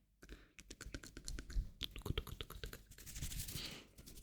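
Close-miked hand sounds: a quick, uneven run of finger taps and clicks, with a soft rubbing hiss about three seconds in.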